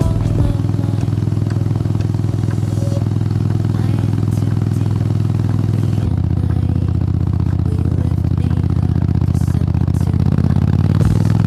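Honda X-ADV's parallel-twin engine running steadily under way. Its note changes about halfway through and rises near the end as it accelerates.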